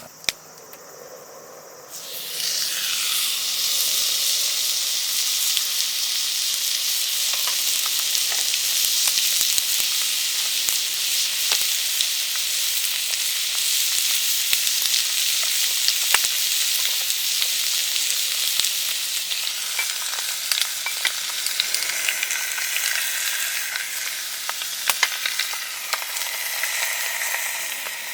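Food sizzling in a hot pan, starting suddenly about two seconds in as it goes into the hot fat, then frying steadily with small pops and crackles.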